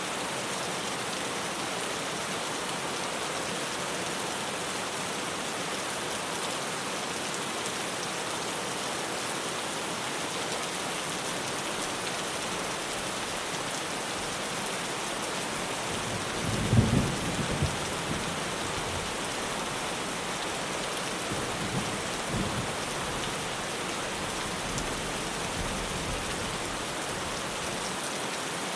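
Heavy rain drumming steadily on a tin roof. Thunder rumbles low over it about halfway through, followed by a few fainter rumbles.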